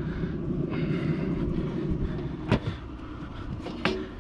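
Steady low mechanical rumble, with a brief hiss early on and two short sharp clicks, one a little past halfway and one near the end.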